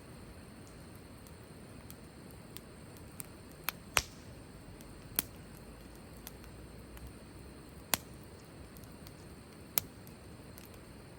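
Wood burning in a campfire: a low steady hiss with irregular sharp pops and crackles from the firewood, the loudest about four seconds in.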